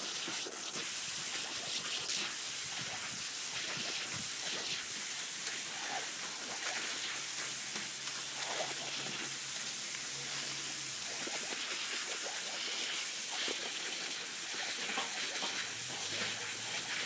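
Garden hose spraying water with a steady hiss.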